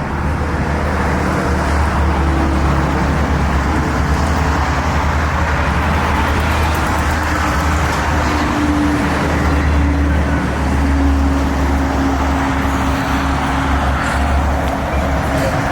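Steady low rumble of a motor vehicle engine running, with outdoor background noise over it.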